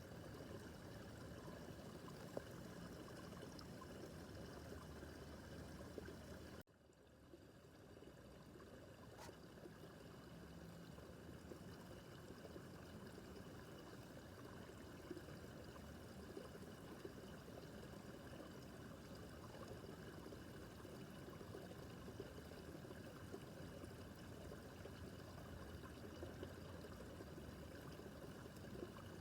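Faint, steady babbling of a small brook running over stones. About seven seconds in, the sound drops out suddenly, then fades back up over a couple of seconds.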